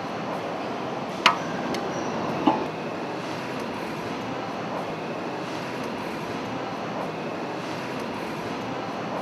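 Metal tools being handled on the engine: a sharp ringing clink about a second in and a duller knock a second later, over a steady, even mechanical background noise.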